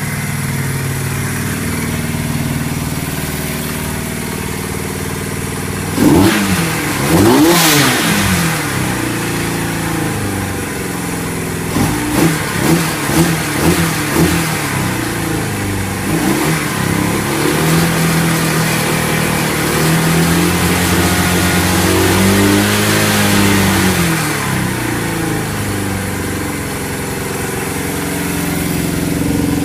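Honda CB175 parallel-twin motorcycle engine running through a CL-style exhaust, idling and being revved. Two sharp revs come about six seconds in, then a quick run of about five throttle blips, then slower revs that rise and fall before it settles back to idle.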